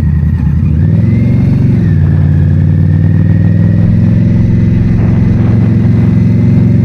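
The liquid-cooled V-twin engine of a 2022 Indian Scout Bobber running under way. Its pitch climbs for about a second, drops sharply about two seconds in, then holds steady.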